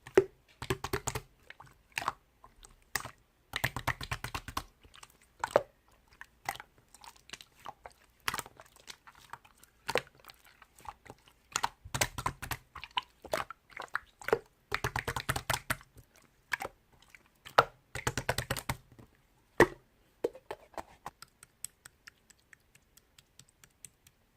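Clear pearl slime being squished and pressed by hand, giving sharp clicks and bursts of rapid crackling pops from trapped air. It thins to a few faint clicks near the end.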